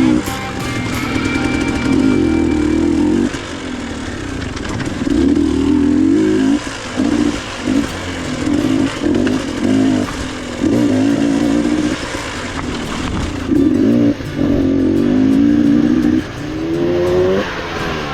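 Two-stroke dirt bike engine revving in about a dozen short bursts, pitch rising and falling as the throttle is opened and closed over and over.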